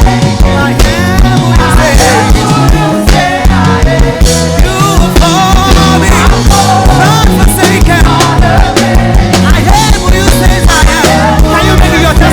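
Live church worship band playing a steady beat on drums, bass and keyboards, with a singer's voice over it.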